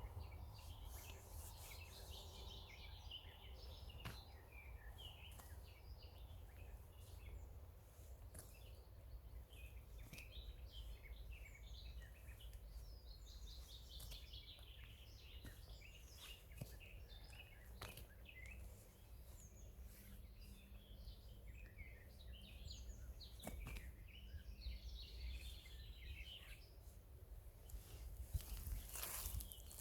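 Faint birdsong: several small birds chirping and twittering in short, scattered phrases, over a steady low rumble.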